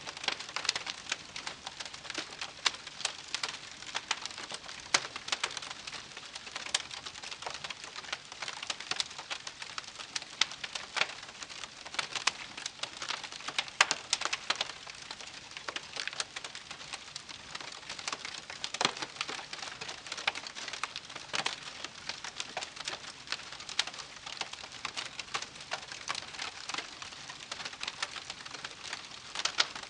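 Wood campfire crackling: dense, irregular snaps and pops over a steady hiss.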